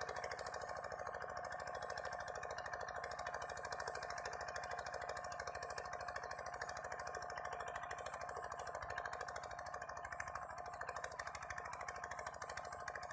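Walking tractor's single-cylinder diesel engine running steadily with a rapid, even knocking beat, with a steady whine over it.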